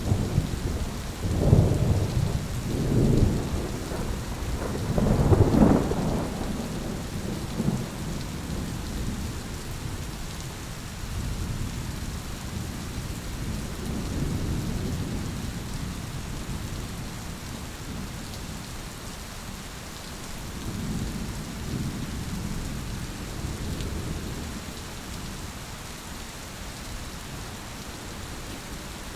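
Steady rain falling on a surface with rolling thunder: several loud rumbles in the first six seconds, then fainter swells of rumble later on.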